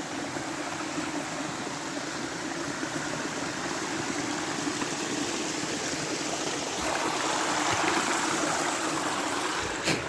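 Steady rushing of flowing water, swelling a little about seven seconds in, with a sharp knock near the end.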